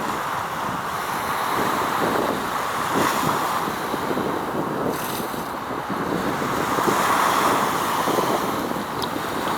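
Wind buffeting the microphone in irregular gusts over a steady rushing background noise.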